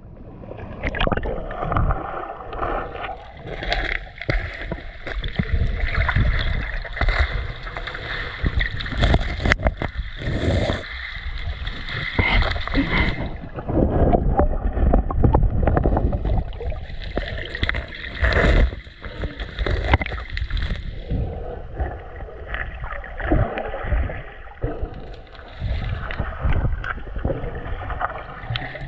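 River water sloshing and splashing right at the microphone, loud and irregular, as someone moves through the water.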